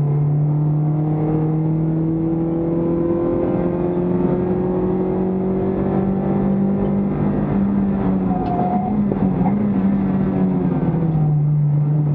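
Toyota Vios Cup race car's four-cylinder engine, heard inside the stripped, roll-caged cabin, pulling hard with its pitch rising slowly for about eight seconds. The engine note then wavers and falls lower near the end as the car slows for a corner.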